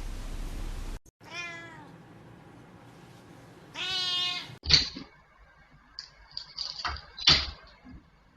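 A cat meows twice: a short call about a second in and a longer one near the middle. A few sharp knocks follow, the loudest about seven seconds in.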